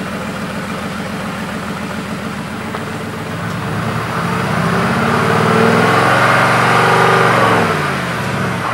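Mercedes-AMG GT R's twin-turbo V8 idling, then revved up from about three seconds in. The revs are held high for a couple of seconds and fall back to idle near the end.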